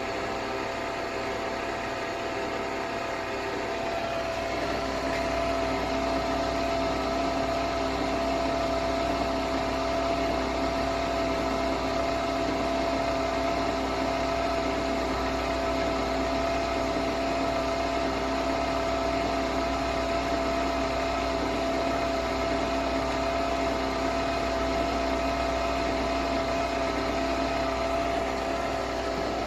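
Nespresso Vertuo Next coffee machine running a brew cycle: a steady motor-and-pump hum with a held whine, getting louder about five seconds in and then running evenly.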